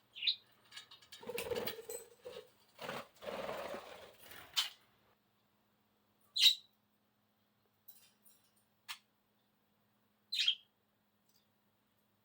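Pet budgie giving short, high single chirps every few seconds, with scuffling noise in the first few seconds and a few light clicks.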